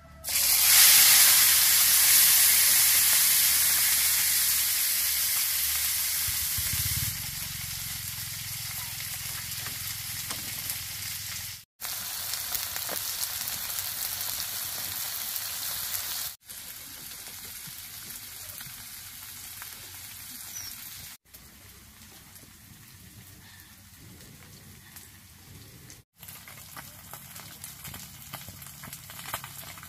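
Small freshwater fish and shrimp sizzling in hot oil in a pan over a wood fire. The sizzle starts suddenly and loud as the food goes into the oil, then settles into a steadier, quieter frying hiss as they cook.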